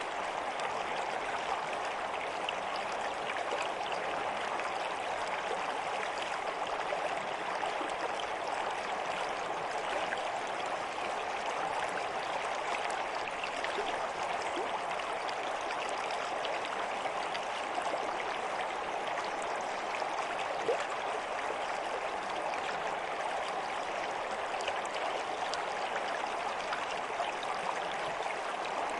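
Running water of a stream flowing steadily, with small scattered gurgles.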